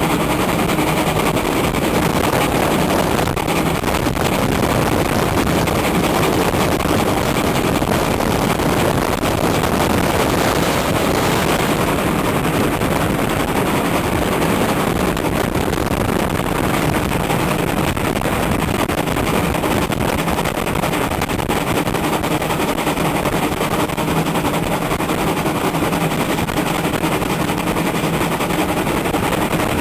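Strong wind buffeting the microphone: a steady, loud, crackling roar that masks everything else.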